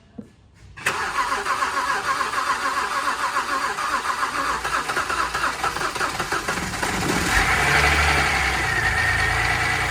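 BMW E90's freshly installed engine cranking on the starter for about six seconds on its first start. It then catches and runs unevenly for a few seconds with a steady high whine over it. Air in the fuel system is suspected for the hard start.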